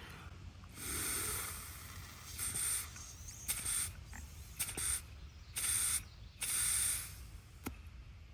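Short hissing blasts of air through an ATV carburetor's passages, about eight in a row, with a few light clicks of small metal parts.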